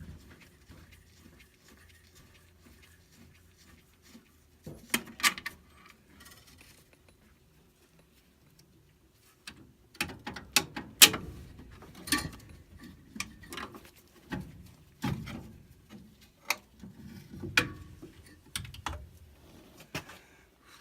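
Tools and metal parts clicking and clanking irregularly as a furnace burner is unbolted and taken apart, sparse at first, then busy from about halfway through.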